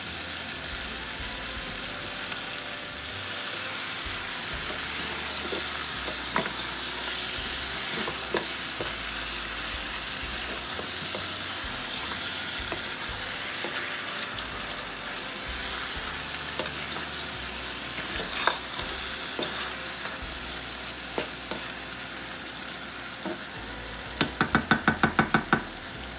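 Crabs and potatoes sizzling in hot mustard oil and spice paste in a wok: a steady frying hiss, with occasional knocks as a wooden spatula stirs them. Near the end, a quick run of about ten sharp ticks is the loudest sound.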